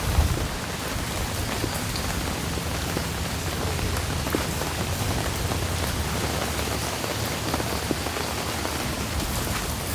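Steady rain pouring down in a storm, with scattered individual drops tapping out louder; a low rumble at the start eases within the first second.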